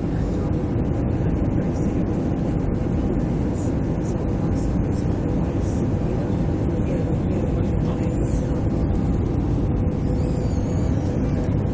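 Airbus A320 cabin noise in flight: a steady deep rush of airflow and engine noise, with two faint steady hums running through it.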